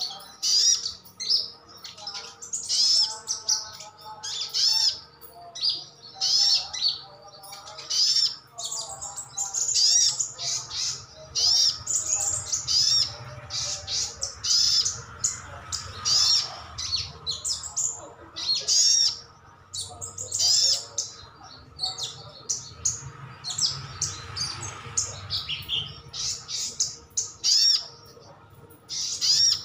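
Sunbird (sogon) calling: a rapid, unbroken string of sharp, high chirps, with some lower warbled notes in the first half.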